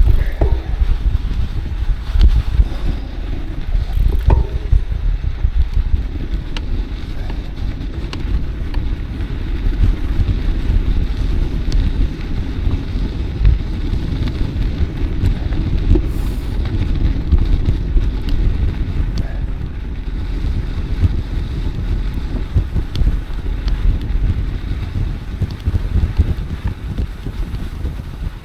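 Wind buffeting the microphone of a camera on a moving bicycle, a steady low rumble mixed with the bike's rolling noise.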